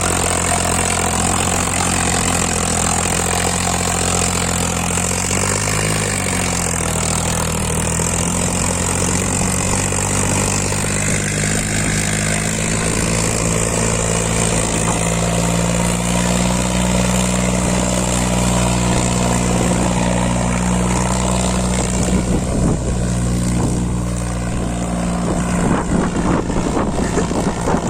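Farmtrac 60 T20 tractor's diesel engine running steadily under load while pulling two loaded trolleys; its pitch dips briefly about six seconds in. Irregular clattering joins near the end.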